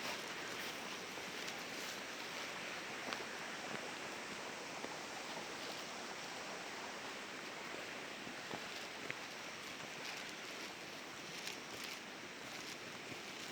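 Steady rushing of flowing water, with a few faint ticks over it.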